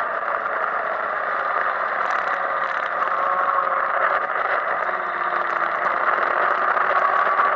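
Suzuki GSX-R 750 inline-four engine running at speed on track, its pitch shifting a little through corners, mixed with heavy wind rush over the onboard microphone.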